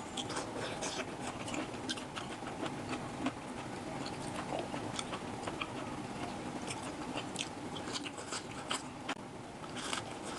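Close-miked eating: chewing and biting, with many small irregular crunchy and wet mouth clicks.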